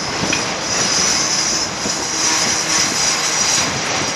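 Double-stack intermodal freight cars rolling past on steel rails: a steady rumble of wheels on track with a strong high hiss, swelling slightly about a second in.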